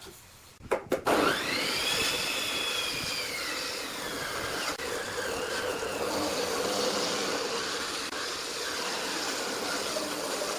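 An electric woodworking power tool switched on: a couple of clicks, then its motor whines up to speed within about a second and runs on steadily with a high whine over a rushing noise.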